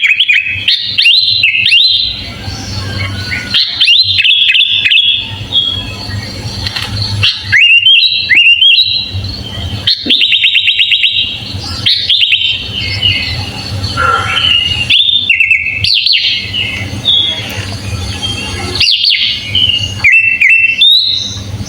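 Sooty-headed bulbul (kutilang) singing a long run of varied chirping phrases separated by short pauses, with a fast rapid trill about ten seconds in. A steady low hum lies underneath.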